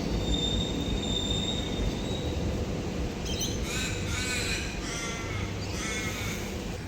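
Suburban electric train rumbling through the station, with a high wheel squeal in the first couple of seconds. A crow caws three times, about a second apart, in the second half.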